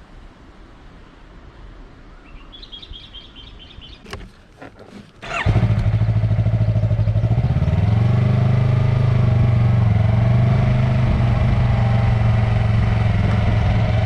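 Yamaha MT-03 motorcycle with a Mivv aftermarket exhaust starting up: a few clicks, then the engine catches about five seconds in and settles into a steady, loud idle.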